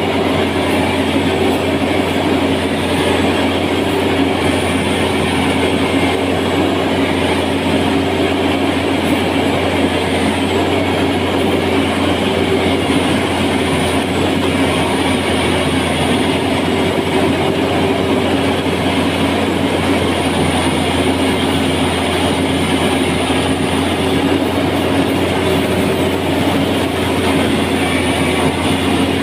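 A heavy machine's engine running steadily at a constant speed, a continuous mechanical drone with a deep hum and a faint high whine.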